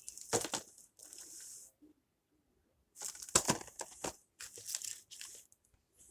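Plastic packaging on a Blu-ray case crinkling and tearing in about five short bursts, with silence between them.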